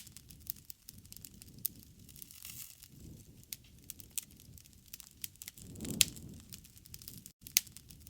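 Wood fire crackling, with frequent sharp pops over a low rumble of flames; the loudest pop comes about six seconds in. The sound cuts out for a split second about seven seconds in.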